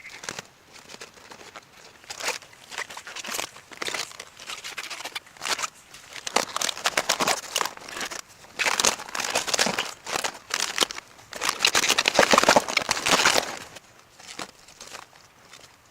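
Dense crinkling and rustling in irregular bursts. It builds from about two seconds in, is loudest around twelve to thirteen seconds, then dies away.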